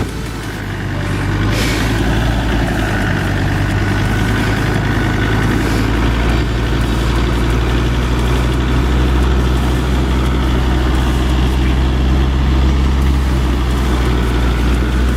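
Four-wheel-drive vehicle's engine running steadily at low revs, with a short sharp knock about a second and a half in.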